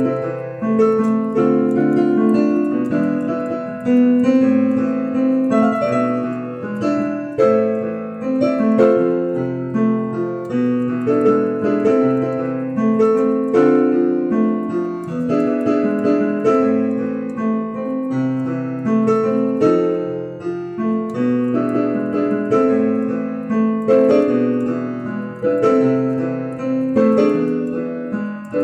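Instrumental piano music: a melody over held chords, with notes struck in a steady flowing rhythm.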